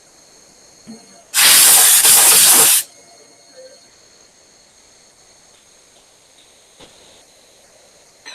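A loud burst of compressed air hissing for about a second and a half, typical of blowing chips and coolant off a freshly machined part, over the steady faint high whine of shop machinery. A few faint knocks come before and after the burst.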